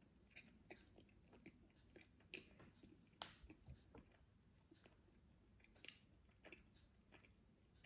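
Faint close-up chewing of a Snickers bar: soft wet mouth clicks and smacks at an uneven pace, with one sharper click about three seconds in.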